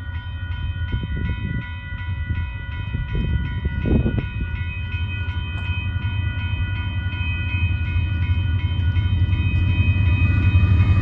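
Railroad crossing warning bell ringing steadily while the low rumble of an approaching Union Pacific freight train grows louder.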